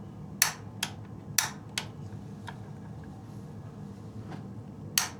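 Gas water heater's pilot igniter clicking as it is worked to light the pilot, the sharp clicks coming in pairs about half a second apart, three pairs in all, over a steady low hum.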